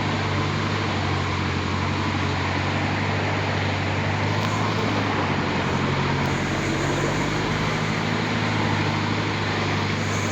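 Truck engine running at a steady low hum as the truck drives over a rough, damaged dirt road, with a constant rumble of road and body noise.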